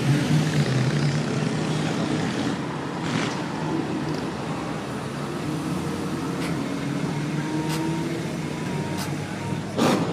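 A motor vehicle's engine running steadily with a low hum, its pitch rising slowly for a couple of seconds in the middle.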